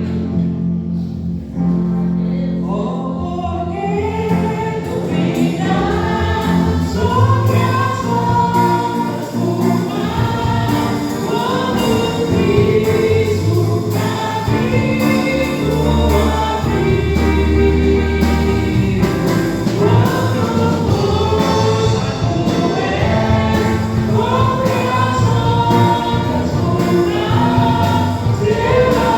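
A choir singing a Christian hymn with instrumental accompaniment; the voices come in a few seconds in over sustained low bass notes.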